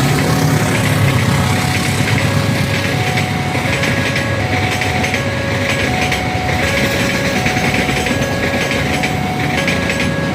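Railroad level-crossing warning alarm sounding a two-note electronic chime that alternates low and high about every 0.7 seconds, over the steady engine noise of nearby vehicles.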